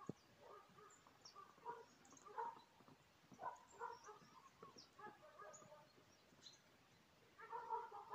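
Faint, scattered bird calls, with a short run of louder calls near the end.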